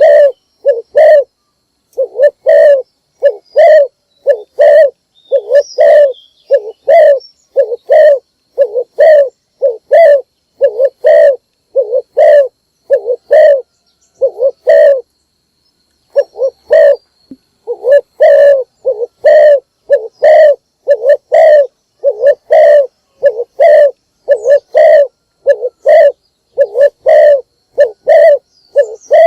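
Spotted dove (cu gáy) cooing loudly and repeatedly, about two coos a second in long runs with a short pause midway, a decoy male's call used to lure wild doves.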